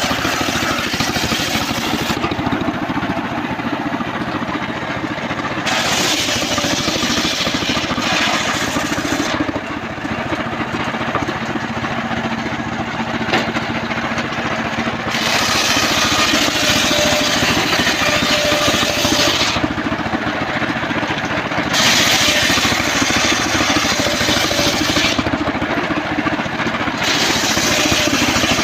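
Engine-driven circular sawmill running steadily while its blade cuts a trembesi log, a high rushing cutting noise coming and going in stretches of a few seconds.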